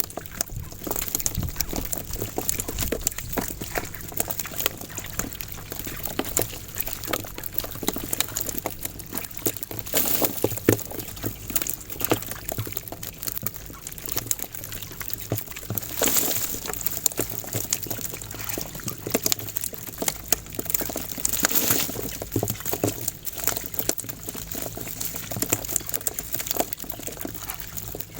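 Water splashing and dripping in an irregular, continuous patter as a wet fishing net is hauled up out of the river.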